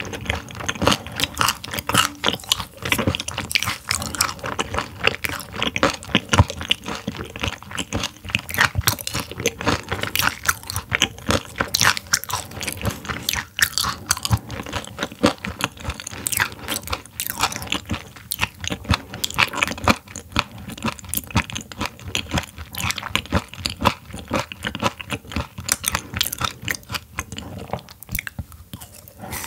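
Close-miked chewing and crunching of raw silver pomfret (butterfish) sashimi that was frozen before slicing: a dense, continuous run of wet crackles and crunches.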